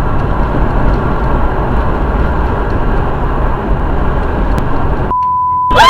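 Steady rumbling engine and road noise of a vehicle driving. Near the end the noise cuts out and a short, steady high beep sounds.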